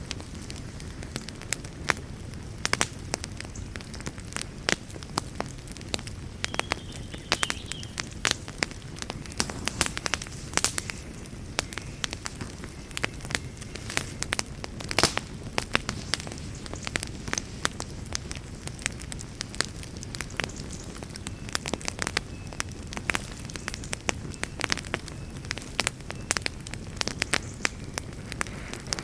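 Campfire burning with a steady low rumble and frequent sharp, irregular crackles and pops.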